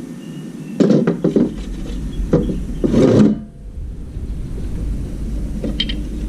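Scraping and rubbing in three short bouts in the first half, then one brief knock near the end, over a low steady hum that comes in about a second in.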